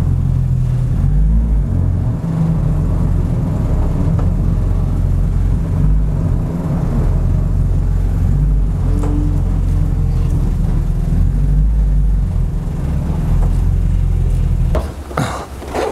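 Spoon Sports EG6 Civic SiR race car's B16A four-cylinder engine running at low revs as the car creeps forward and parks. The engine cuts off about fifteen seconds in, followed by a few short knocks and clicks.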